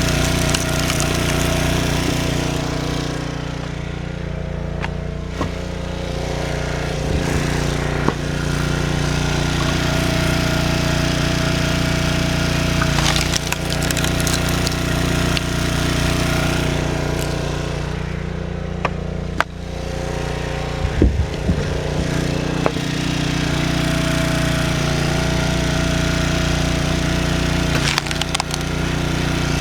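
Stihl 039 two-stroke chainsaw running hard as it cuts through firewood logs. The engine speed eases off briefly twice, and a few sharp knocks come around two-thirds of the way through.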